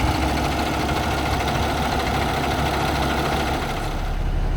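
Dump truck's diesel engine idling steadily. About four seconds in, the sound turns duller as the high hiss drops away.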